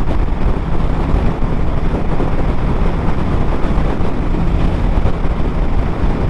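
Motorcycle riding at highway speed: a steady rush of wind over the camera's microphone with the engine's low drone underneath.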